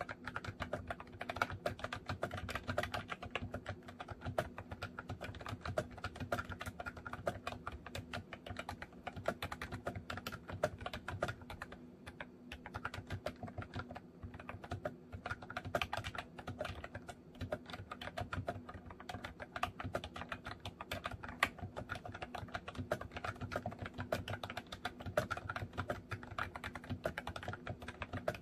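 Continuous typing on a MOFii Candy retro-style keyboard: a rapid, steady stream of key clicks, many per second.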